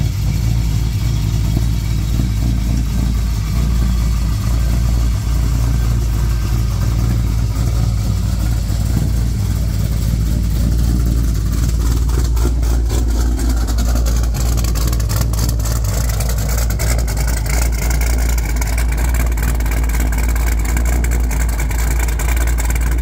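Cammed LS3 6.2-litre V8 of a Pontiac G8 GXP idling steadily, with a choppy cam lope through a straight-piped exhaust.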